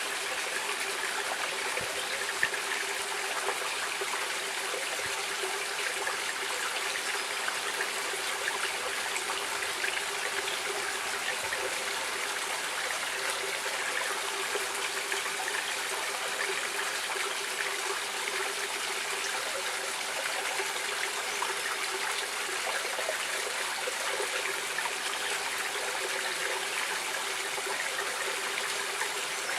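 Stream water running and trickling over rocks, a steady babbling rush with small splashes.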